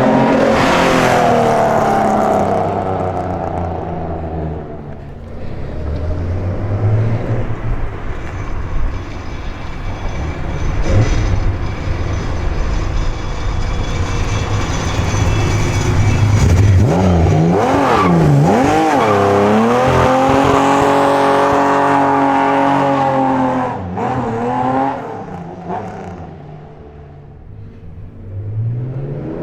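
Nissan Skyline 'Hakosuka' engine on Solex carburettors, tubular headers and a period Trust 50 mm dual exhaust, pulling hard as the car is driven. The note rises and falls with the revs, with quick up-and-down sweeps about two-thirds in, and eases off near the end.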